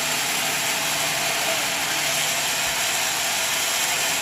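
Portable sawmill machinery running with a steady, even mechanical noise.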